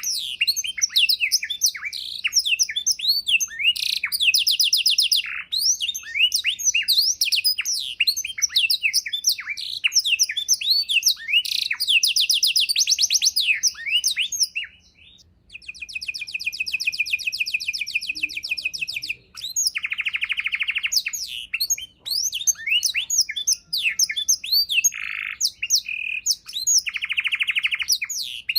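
Domestic canary singing a long, varied song packed with learned fill-in phrases: fast chirps and sweeps run into rapid buzzy trills, with a brief pause about halfway through and several lower rolling trills in the second half.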